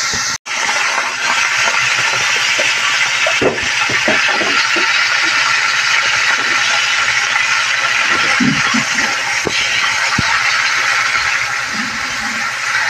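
Pork liver frying in hot oil in a wok, a loud steady sizzle, with a few knocks and scrapes of a spatula stirring against the pan. The sound cuts out for a split second just after the start.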